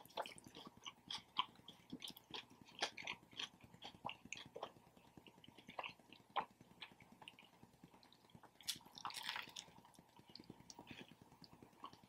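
A person chewing and biting into a Subway footlong sub sandwich close to the microphone: soft, irregular clicks and smacks, with a brief louder rustle about nine seconds in.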